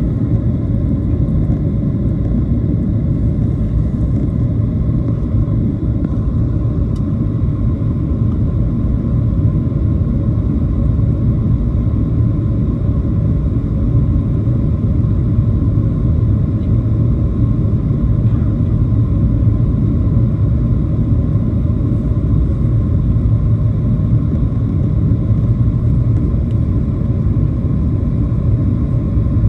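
Steady low rumble of cabin noise inside a Boeing 737-700 airliner, with faint steady tones above it and no sudden changes.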